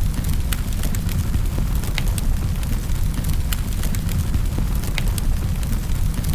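Wood fire burning in a fireplace: a steady low rumble of flames with sharp crackles and pops scattered irregularly, a few a second.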